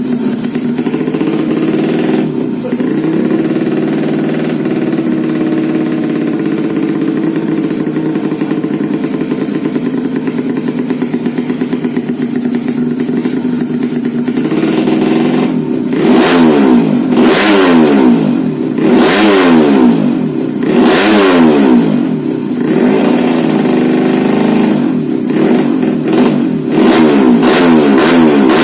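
Modified 125 cc underbone motorcycle engine idling steadily, then from about halfway through revved again and again in quick throttle blips, its pitch rising and falling with each one.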